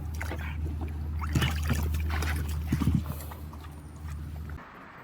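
A dog moving about, with scattered clicks and taps, over a steady low hum that cuts off near the end.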